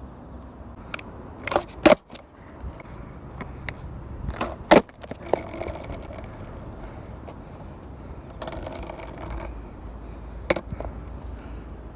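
Skateboard clacking on pavement: a few sharp knocks of the board hitting the ground, the loudest about two and about five seconds in, with another near the end.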